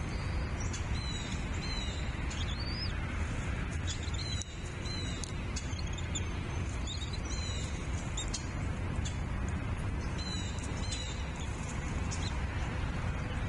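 Bald eagles calling from the nest: a run of short, high chirps, each sliding down in pitch, repeated irregularly throughout. A steady low rumble runs underneath.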